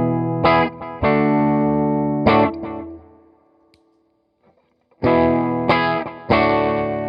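Electric guitar played through an Electra MPC-8 Tube Sound distortion module: several overdriven chords struck and left ringing, fading to near silence by about the middle. More chords are struck about five seconds in.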